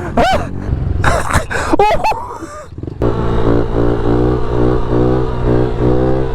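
Excited voices shouting for the first couple of seconds, then, from a sudden cut about three seconds in, a small pit-bike motorcycle engine running at fairly steady revs.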